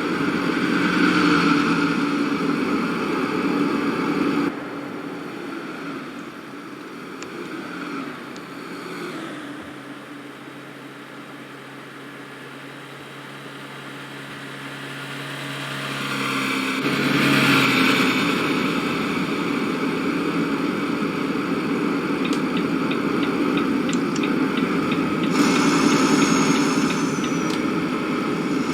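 A boat's engine running steadily. The sound drops suddenly about four seconds in and comes back louder about seventeen seconds in.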